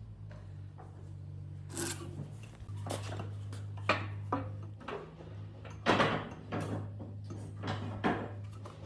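Pieces of wood being handled, with irregular knocks and scrapes of wood on wood over a steady low hum.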